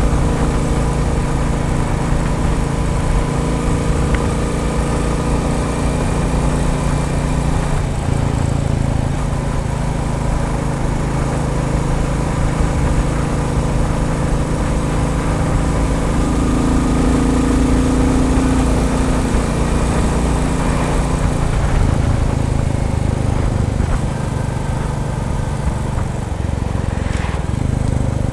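Royal Enfield Bullet 350's single-cylinder engine running steadily, its note shifting a few times as revs and load change.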